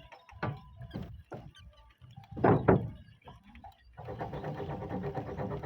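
Knocks and clunks of roofing sheets being handled and fitted, the loudest pair about two and a half seconds in. About four seconds in, a steady rasping sound with a fast even rhythm starts.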